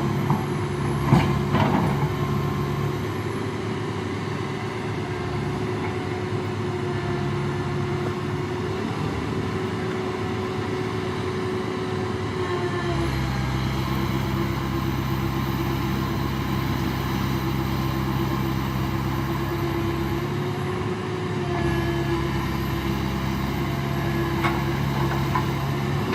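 Toyota Hilux pickup's engine running at a steady speed. About halfway through it gets louder and fuller, then eases briefly a little later before picking up again.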